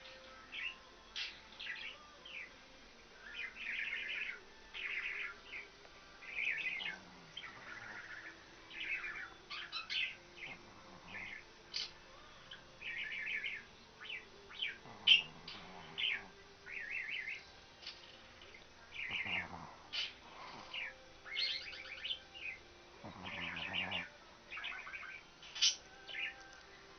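Birds chirping: short twittering phrases one after another, with brief gaps between them.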